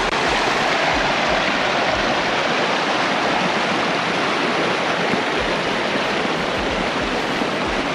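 Canyon river rushing steadily, a loud, even sound of flowing water.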